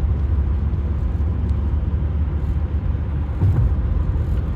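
Steady low rumble of a car driving, road and engine noise as picked up by a dashcam, with a brief knock about three and a half seconds in.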